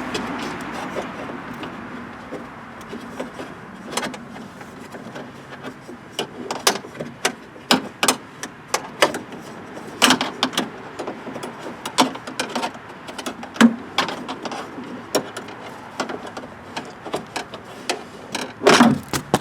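Irregular clicks, taps and knocks of plastic and metal parts inside a car door being handled and fiddled with, as a plastic piece of the lock assembly is worked toward its slot; they come faster after the first few seconds, with a denser cluster near the end.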